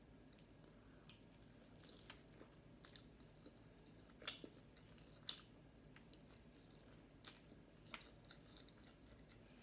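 Faint close-up eating sounds: chewing, with scattered small sharp clicks and smacks, two of them louder about four and five seconds in.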